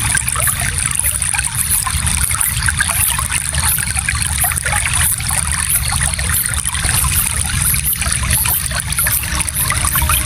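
Shallow stream flowing steadily, water trickling and splashing over stones, with a low rumble beneath.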